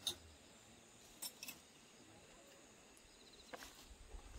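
Near silence with a few faint, brief clicks and taps.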